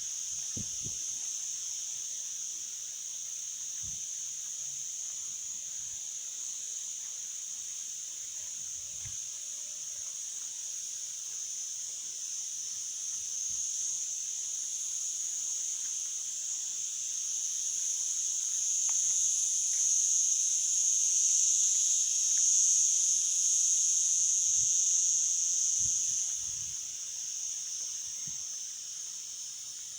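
Steady, high-pitched insect chorus with no pauses, swelling louder past the middle and easing off again near the end.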